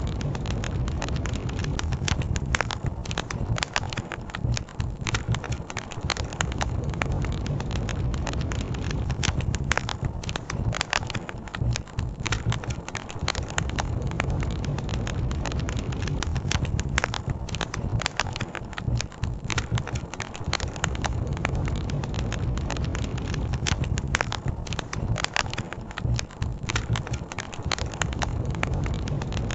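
Wood campfire crackling, with frequent sharp pops and snaps over a steady low rush of flowing river water.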